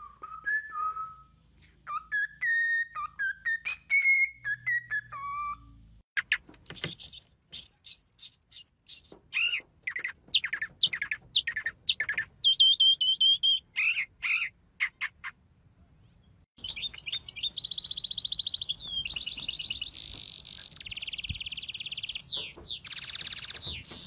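Three birds singing in turn. First, a cockatiel whistles a tune in clear notes for about five seconds. Then a mockingbird sings quick, varied chirps and phrases, and from about two-thirds of the way through a small songbird sings fast trills and buzzy warbling.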